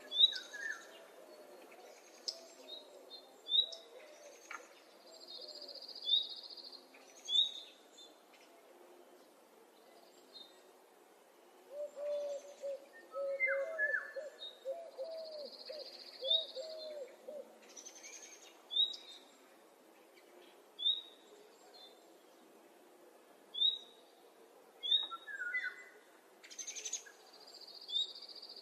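Several wild birds calling. A short high chirp repeats every second or two, a buzzy high note about a second long comes three times, and a lower run of quick warbling notes comes in the middle.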